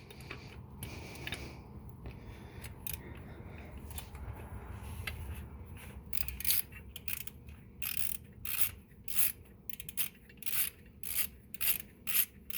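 Hand socket ratchet turning the new EGR valve's mounting bolts: faint scraping and handling at first, then from about six seconds in a steady series of short ratcheting clicks, roughly one stroke every half-second or so.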